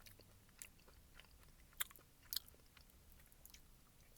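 Faint chewing of a sweet and salty peanut granola bar, with a few short crunchy crackles, the sharpest two a little under two seconds and about two and a half seconds in.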